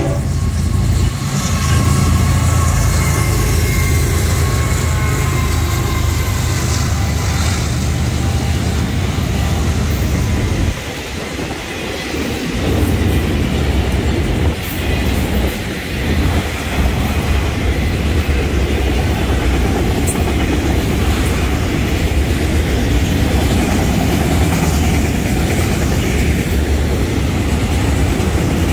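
Florida East Coast Railway freight train passing close by. A heavy diesel-locomotive rumble fills the first ten seconds or so, dips briefly, and is followed by the steady rolling noise of autorack freight cars going past on the rails.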